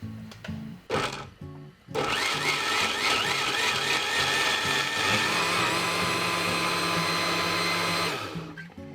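A small electric kitchen appliance motor gives a brief pulse about a second in, then runs for about six seconds with a wavering pitch before stopping. Soft background music plays underneath.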